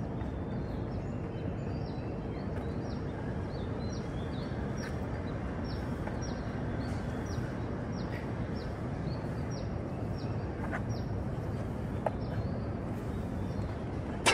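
Steady outdoor city background hum with a bird repeating short, high, falling chirps about twice a second, and one sharp click near the end.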